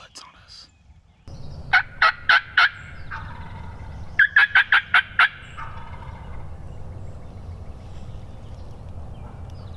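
Wild turkey tom gobbling loudly twice, each gobble a fast rattling string of notes, the second one longer, over a steady low rumble.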